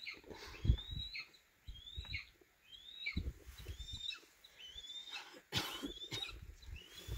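A bird calling over and over, a short rising whistle repeated about once a second, with scattered low thumps underneath.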